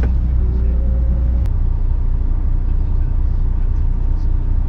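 Lorry's diesel engine running with a steady low rumble, heard from inside the cab.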